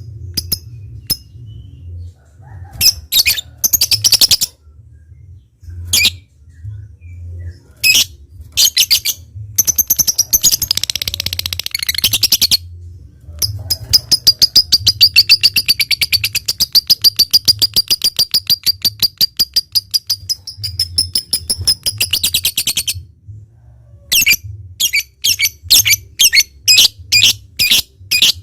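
Lovebird calling: scattered sharp chirps and a dense burst of chatter, then a long, fast trill of rapidly repeated high notes lasting about nine seconds (the 'ngekek panjang' of a bird in full song). After the trill it goes back to separate sharp chirps, about three a second.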